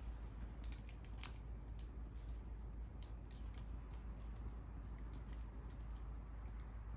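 Bonfire crackling with irregular sharp pops, one louder pop about a second in, over a steady low rumble.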